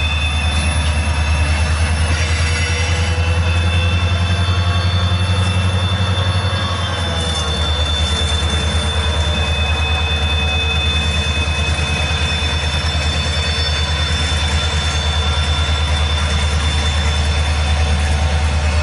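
Freight train passing over a grade crossing: steady high-pitched wheel squeal over the low rumble of the train and an EMD GP40-2 diesel locomotive. The rumble eases a little about seven seconds in.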